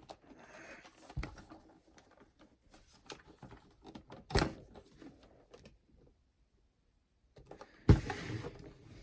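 Small clicks, rattles and handling noises of plastic parts of a clock radio/cassette player being worked on by hand, with two louder knocks, one about halfway through and one near the end.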